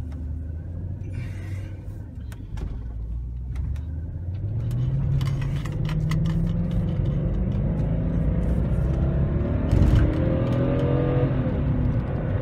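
BMW X5 4.8's V8 engine heard from inside the cabin, running low and steady, then pulling away and accelerating with its pitch rising from about four seconds in. There is a single thump near ten seconds in, and light clicks throughout.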